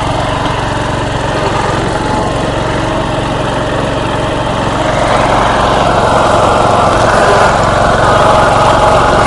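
MTD riding lawnmower's small engine running steadily, growing louder about five seconds in.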